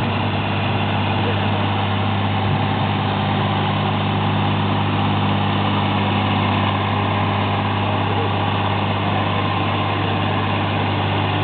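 Tractor diesel engine running steadily at an even speed, with a deep, constant drone and no revving.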